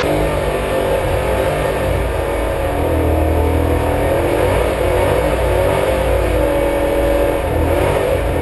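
Chevrolet Nova drag car's engine running at a loud, steady idle, heard from inside the cabin.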